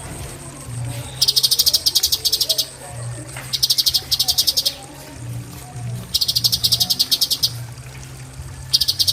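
Cucak cungkok singing its rapid 'tembakan' song: four fast, buzzy, high trills of about a second each, with short pauses between them. Soft lower chirping and a steady low hum run underneath.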